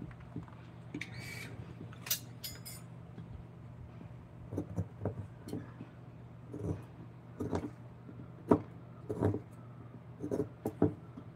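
Irregular light knocks and taps of hand work on wood, over a steady low hum. A few sharp clicks come in the first few seconds, and the knocks come more often from the middle on.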